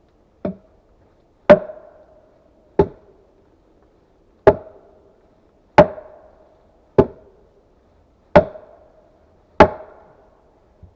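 Small axe chopping wood: eight sharp, ringing blows about one and a quarter seconds apart, the first one lighter, with a faint tap near the end.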